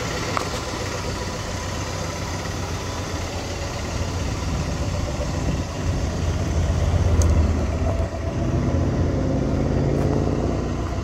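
The 1965 Mercury Montclair Marauder's 390 V8 idling steadily, growing louder in the second half as the tailpipes come near.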